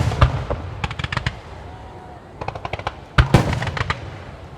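Aerial firework shells of a starmine barrage bursting: a deep boom at the start and another about three seconds in, each among clusters of rapid crackling pops.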